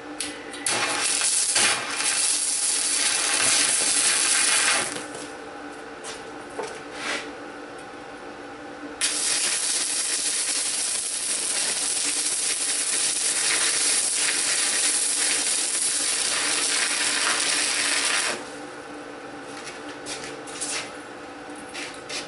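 Stick-welding arc sizzling: an AHP Alpha 160 ST inverter welder burning 6013 rods at about 75 amps on thin steel. Two runs, one of about four seconds near the start and a longer one of about nine seconds from the middle on, with a few short ticks between and after them and a steady hum underneath.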